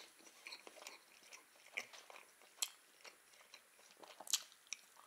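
A person chewing a mouthful of casserole spread with squash caviar, making small wet mouth clicks, with a few sharper clicks; the loudest comes about four seconds in.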